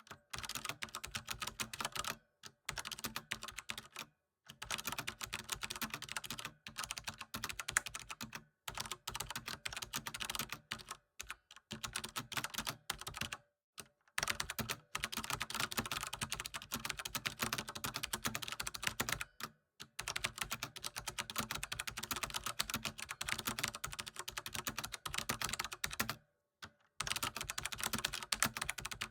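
Fast typing on a computer keyboard: continuous runs of rapid key clicks, broken every few seconds by brief silent pauses.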